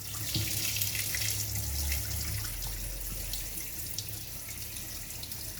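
Hot water being poured off a pot of softened red onions, splashing as it drains, pouring more heavily for the first two seconds and then easing to a thinner stream.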